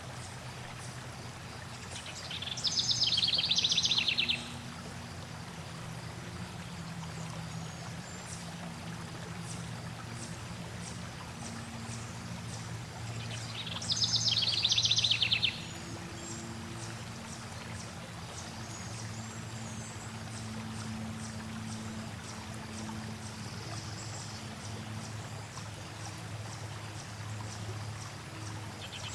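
Flowing water running steadily, with a songbird singing loudly twice, each song a rapid trill of about two seconds, one about two seconds in and one about fourteen seconds in. Fainter bird chirps come in between.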